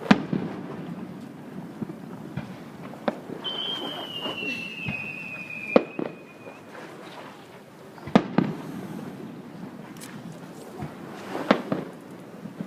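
Aerial fireworks bursting: sharp bangs and booms at irregular intervals over a low rumble. A high whistle slides slightly down in pitch for about three seconds near the middle.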